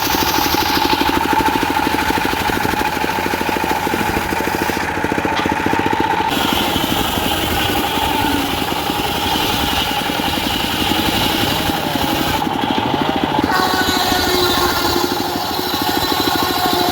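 Diesel engine driving a circular sawmill, running steadily with an even, rapid beat.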